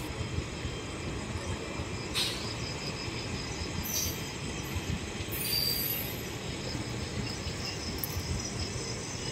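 Indian Railways express train's coaches rolling past on the track, a steady rumble of wheels on rail. There is a sharp click about two seconds in and a couple of short high wheel squeaks near the middle.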